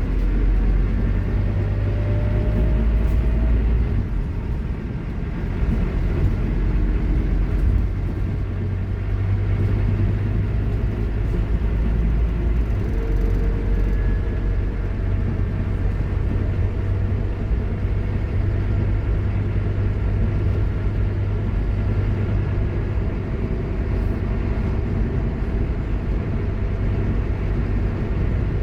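Scania K230UB Omnilink bus running with a deep, steady diesel rumble, over which the whine of its ZF Ecomat automatic gearbox rises in pitch now and then as it pulls through the gears.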